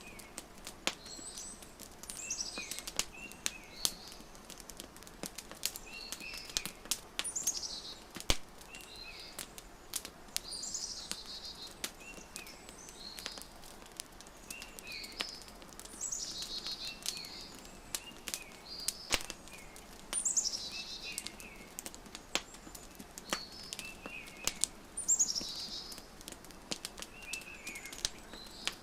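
Wood fire crackling with irregular sharp pops, over a songbird that repeats a falling trilled phrase every four to five seconds, with short chirps in between.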